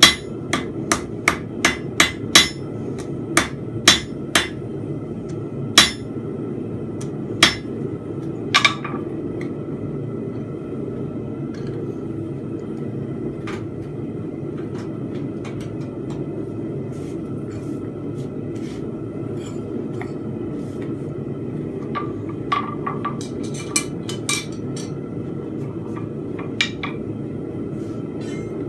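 Blacksmith's hammer striking a steel bar on the anvil while forging a fence peg: a quick run of blows in the first few seconds, then slower single strikes up to about nine seconds in. After that a steady low rumble, with a few lighter taps near the end.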